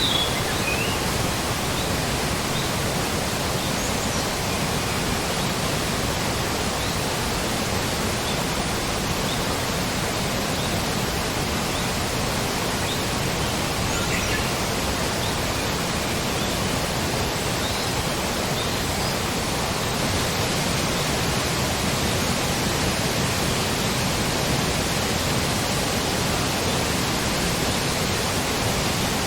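Forest ambience: a steady, even rushing noise like running water, with a few faint, short high chirps scattered through it.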